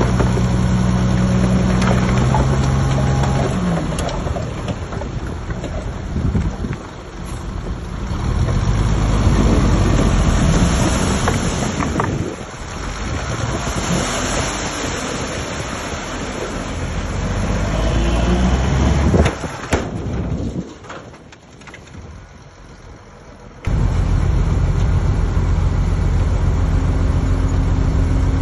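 Heavy diesel earthmoving machinery running: engine drone that shifts in pitch and load. It drops away briefly and then cuts back in abruptly at full level near the end.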